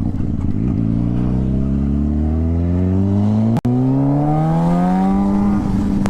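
Motorcycle engine accelerating through a long pull, its pitch rising steadily for several seconds and then levelling off near the end. The sound cuts out for a split second just past halfway.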